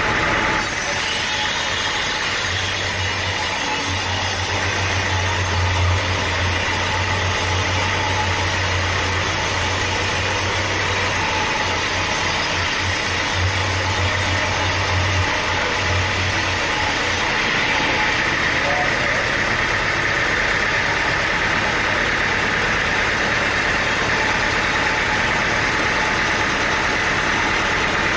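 Sawmill engine running steadily. A deep hum and a high hiss ride on it for roughly the first half, then drop away about 17 seconds in.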